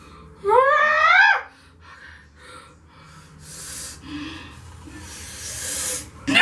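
A woman's drawn-out moan, rising in pitch, about half a second in, then two long breaths blown out hard later on, in discomfort from a burning, stiffening peel-off face mask.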